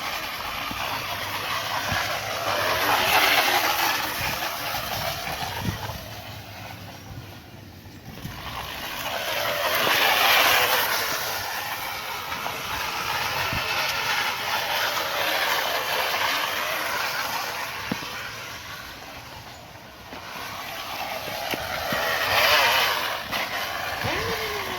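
Aluminium drink can pressed against a bicycle's spinning rear tyre, rattling noisily. The noise swells loud three times as the bike passes close and fades between passes.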